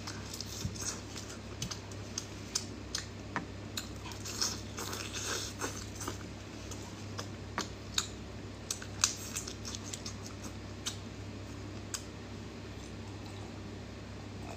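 Close-miked chewing of cooked shrimp: wet mouth clicks and smacks, several a second at times, thinning out after about eleven seconds, over a steady low hum.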